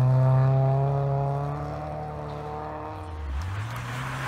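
Mk2 Volkswagen Golf rally car's engine pulling away at a steady high pitch and fading into the distance. About three seconds in, a second rally car's engine comes in, rising in pitch as it approaches.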